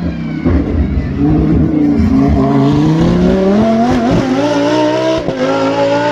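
Race car engine accelerating hard, its pitch climbing for several seconds, then two quick upshifts about four and five seconds in.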